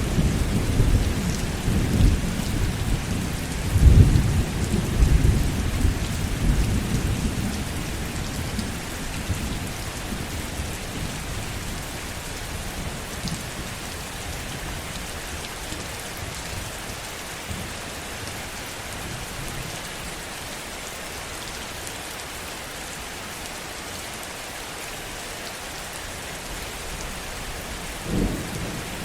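Heavy rain falling steadily, with thunder rumbling through the first several seconds, loudest about four seconds in, then fading. A short rumble of thunder returns near the end.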